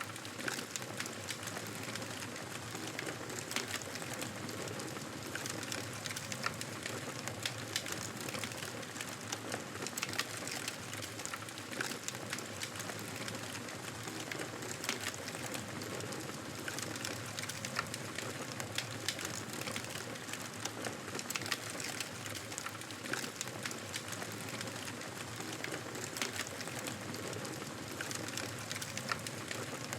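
Wood fire burning in a fireplace: a steady hiss with many small irregular crackles and pops.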